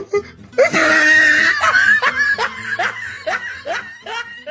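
A meme sound clip of a person laughing. It starts with a loud burst about half a second in and trails off into a run of short, fading "ha" pulses, about three a second.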